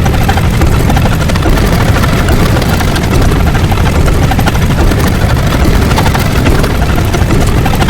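A loud, steady rumbling noise with a rapid low flutter, filling the whole range from deep to high. It stops abruptly at the end.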